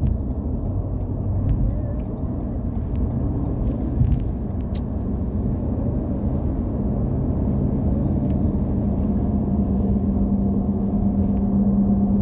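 Semi-truck's engine and road noise while driving, a steady low rumble with a hum that grows louder over the last few seconds.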